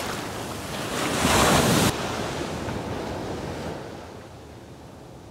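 Ocean surf washing on a beach, with wind on the microphone. A louder wash in the first two seconds cuts off abruptly, and the sound drops quieter near the end.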